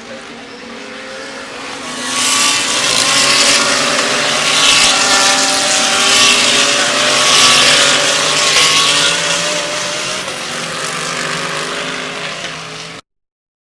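GT3 race car engines at racing speed passing by, several engines heard at once. The sound swells about two seconds in, stays loud, then cuts off suddenly near the end.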